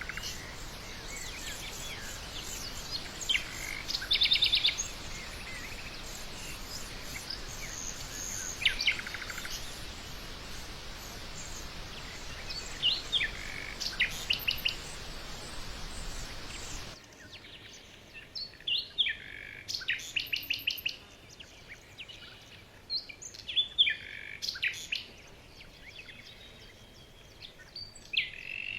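Small birds calling in short chirps and rapid trills, scattered irregularly. A steady hiss lies under the calls until about two-thirds of the way in, where it cuts off abruptly and the background turns quieter.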